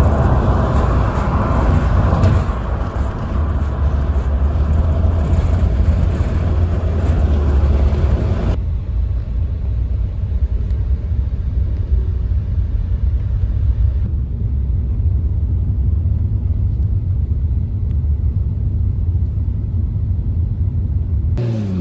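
A car running with a heavy, steady low rumble. The higher part of the sound drops away abruptly about eight seconds in, leaving mostly the low rumble.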